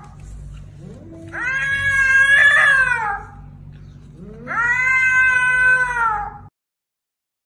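A cat meowing: two long, drawn-out meows, each about two seconds, holding a steady pitch and sagging at the end, after the tail of an earlier one.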